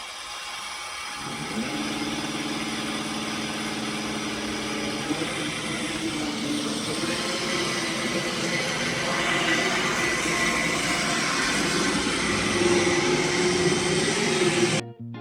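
iRobot Roomba i7+ robot vacuum running: a steady whirring rush from its suction fan and brushes, with a motor hum that comes in about a second in and wavers slightly in pitch. It cuts off abruptly near the end.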